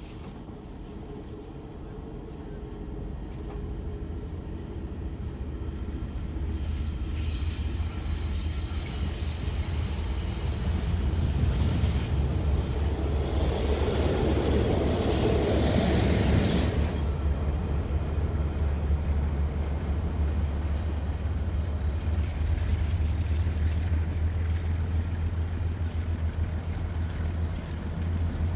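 Diesel freight train passing, led by two KiwiRail diesel locomotives. The engine drone builds up, is loudest about halfway through as the locomotives go by, then settles into a steady low rumble as the wagons roll on.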